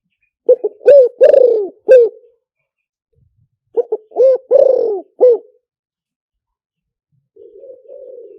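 Spotted dove cooing: two loud phrases of several coos each, about three seconds apart, then a softer coo near the end. It is a decoy-call recording used to lure wild spotted doves.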